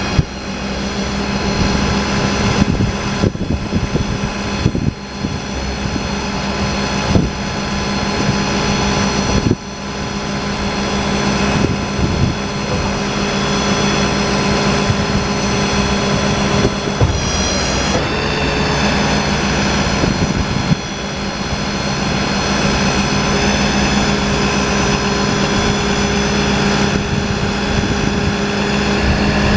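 Summit 6620 service crane being operated, its pumps whining steadily over the truck's running engine. The tone and level shift briefly a few times as crane functions are started and stopped.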